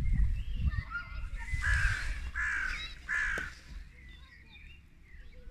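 A bird calling three times in quick succession, each call about half a second long, with a few fainter calls just before. A low rumble on the microphone sits under the first half.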